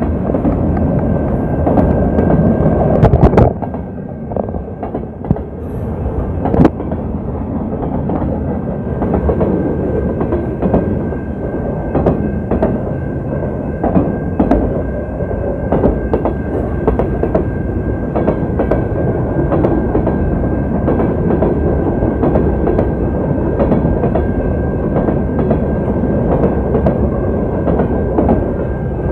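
Freight train rolling past close by: a steady heavy rumble of wheels on rail with repeated clicks of wheels over rail joints, and a steady thin high tone throughout. It is heard through a water-damaged phone microphone.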